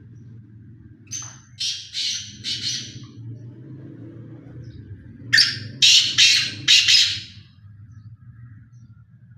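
Black francolin (black partridge) calling: two phrases of four or five quick high notes each, the second phrase, about four seconds after the first, the louder. A low steady hum runs underneath.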